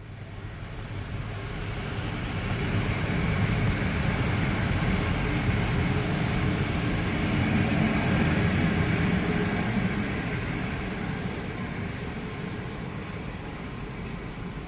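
A train going by: rumbling and rushing noise that swells over the first few seconds, peaks in the middle and slowly fades.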